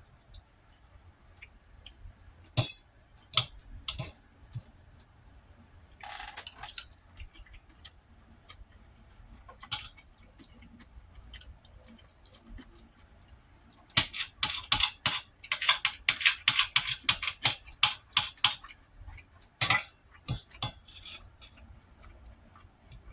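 Eating utensils clinking and scraping against a dish: a few separate clinks, then a dense run of quick clicks and scrapes for several seconds past the middle, then a couple more clinks.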